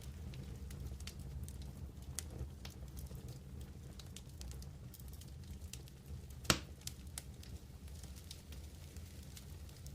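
Wood campfire crackling, with scattered small pops and one louder pop about six and a half seconds in, over a low steady rumble.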